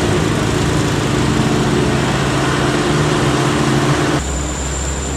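A truck engine running steadily under road noise. About four seconds in, the sound switches abruptly to a lower, steadier hum with a thin high whine.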